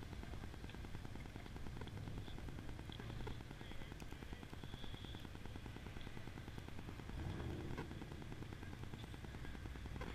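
Car engines running low as cars drive slowly through a parking lot. The rumble swells about seven seconds in as a car pulls past.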